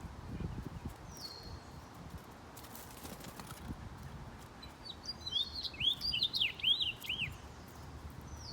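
Songbirds at a feeder: a short high down-slurred call about a second in and again at the end, and in the second half a quick warbled song of rising and falling notes lasting about two seconds. Faint low knocks run underneath.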